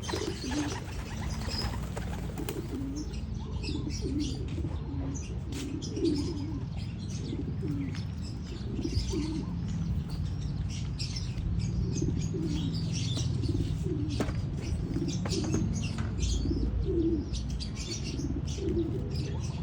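Racing pigeons cooing over and over, with wings flapping and higher chirping calls mixed in, over a steady low rumble.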